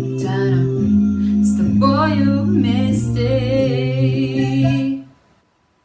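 Female voice singing over an electronic piano accompaniment. The music stops about five seconds in and drops to near silence.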